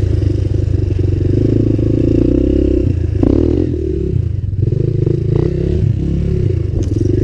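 Suzuki LTZ 250 quad's single-cylinder four-stroke engine running under way through a DG Performance RCM II aftermarket exhaust, quite a bit louder than the stock one. The throttle eases off a few seconds in and is opened again near the end.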